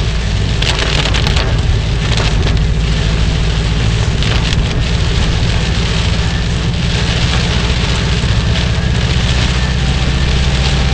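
Heavy hurricane rain pelting a moving car, a dense steady hiss that swells in a few louder washes, over the steady low rumble of the car's engine and tyres.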